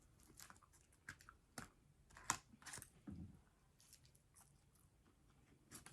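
Faint, close-miked chewing of a mouthful of food: scattered soft wet clicks and small crunches from the mouth, in a quick cluster a couple of seconds in.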